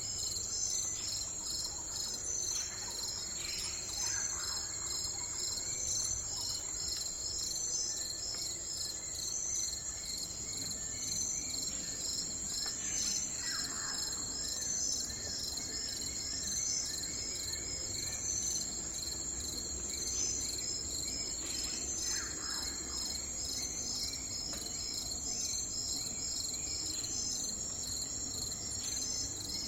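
Crickets chirping in a steady, rapidly pulsing high trill. About every nine seconds a bird gives a short call that falls in pitch, heard three times and again at the very end.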